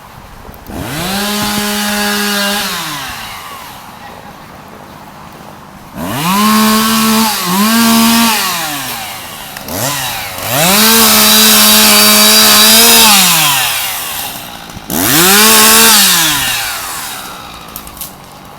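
Two-stroke chainsaw revved up to full throttle four times, each time holding briefly and dropping back to a quieter idle between bursts.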